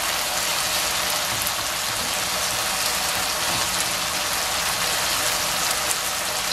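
Boneless chicken pieces and chopped green onion sizzling steadily in oil in a nonstick wok over high heat, with a wooden spatula stirring through them.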